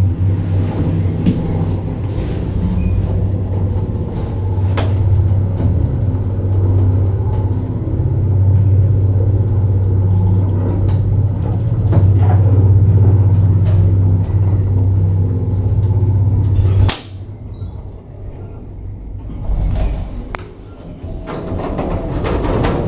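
Old elevator's hoist machine running with a loud, steady hum. About seventeen seconds in it stops with a sharp clunk, the sort a hoist brake makes setting at the end of a run. After a few quieter seconds the machine noise builds up again near the end.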